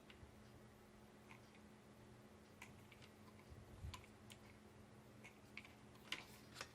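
Faint, scattered light clicks and taps of small craft pieces being handled and glued in place by hand, over a faint steady hum.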